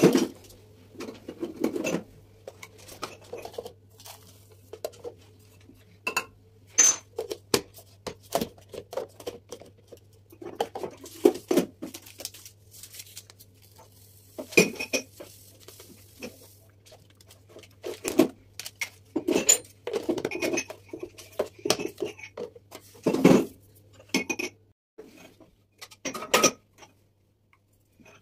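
Kitchen storage jars and containers being handled and set down: irregular clinks and knocks, some ringing briefly, with stretches of shuffling handling noise in between.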